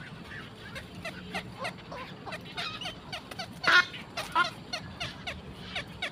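Birds calling: a steady run of short descending chirps, about three or four a second, with a louder harsh squawk a little past halfway and a shorter one just after.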